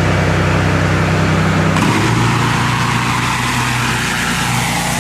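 Gas engine of a pressure washer running steadily; a little under two seconds in, its note shifts and a brighter hiss comes in.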